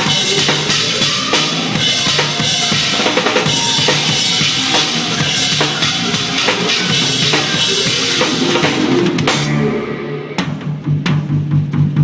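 Drum kit played over the song's backing music: bass drum, snare and cymbals in a steady groove. About three-quarters of the way through the cymbals drop out and the drumming thins to a few separate hits.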